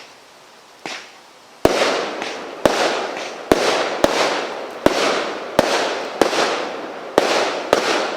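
Firework cake firing a string of about ten shots. A small pop comes about a second in, then sharp bangs follow roughly every three-quarters of a second, each trailing off in a short fading hiss.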